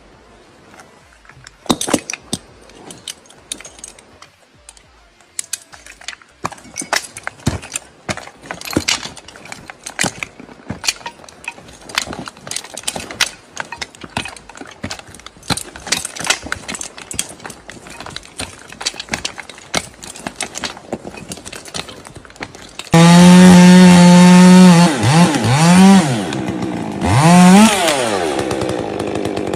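A run of irregular sharp clicks and cracks. About two-thirds of the way in, a loud small motor cuts in suddenly, running at a steady pitch, then dipping and rising in pitch twice before settling lower.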